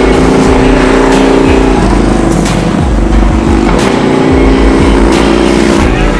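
Motorcycle engine running on the move, mixed with background music that has a regular beat.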